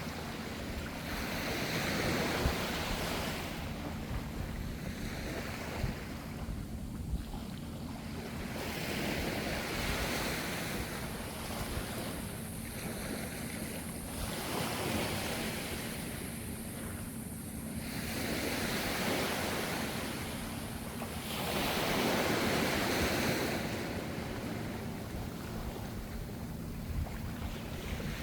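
Ocean waves breaking and washing in one after another, each surge of surf swelling and fading over a few seconds, above a steady low rumble of the sea.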